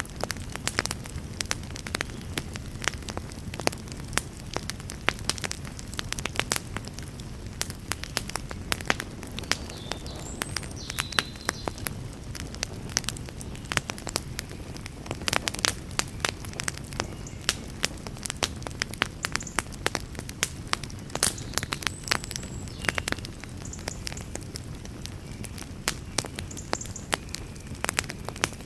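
Wood campfire crackling: dense, irregular sharp pops and snaps, several a second, over a low steady rush.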